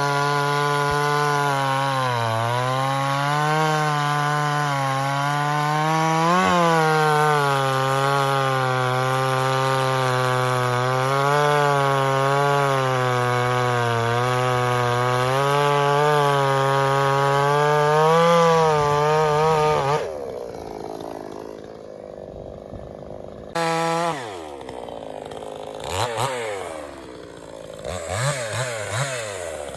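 Two-stroke gasoline chainsaw held at full throttle while cutting through wood, its high engine note wavering and sagging slightly under load. About two-thirds of the way through the throttle drops suddenly and the saw runs lower, with uneven rises and falls in pitch.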